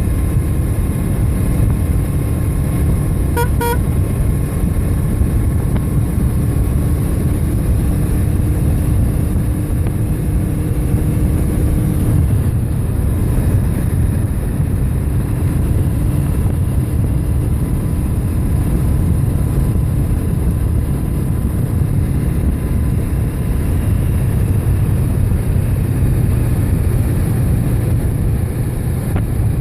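Steady rumble of wind and road noise while riding a bike along a road, with a brief double beep about three and a half seconds in.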